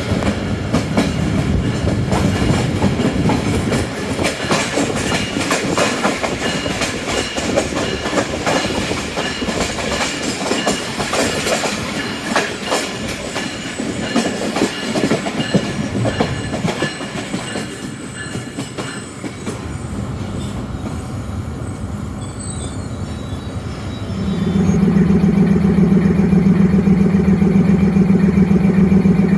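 Express train running on the rails, its wheels clattering over the rail joints in a steady clickety-clack that eases off after about 19 s. About 24 s in, a loud, steady low drone starts and holds.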